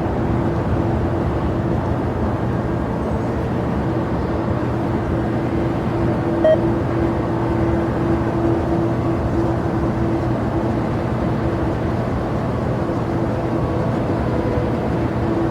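Steady drone of aircraft engines running at an even pitch, a constant low hum with a couple of held tones and no rise or fall. A short, faint beep about six and a half seconds in.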